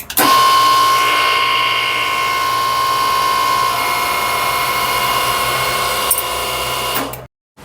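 Hose-crimping machine running, its motor and pump whining steadily as the dies crimp a fitting onto a power-steering pressure hose. It starts abruptly and stops about seven seconds in.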